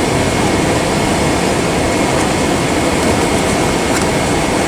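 Steady cabin noise inside a Boeing 767-400 moving on the ground: an even, dense rumble of the engines, cabin air conditioning and the airframe rolling.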